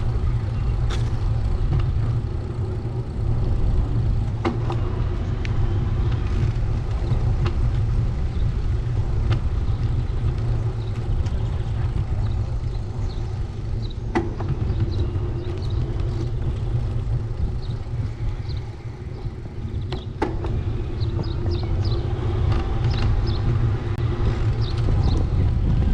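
Steady low rumble of a bicycle ride along a town street, with scattered sharp clicks and ticks.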